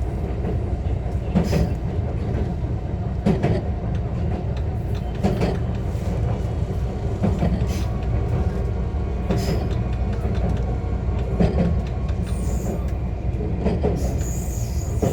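Onboard running sound of a JR West 125 series electric railcar at steady speed: a continuous low rumble, with wheels clicking over rail joints about every two seconds.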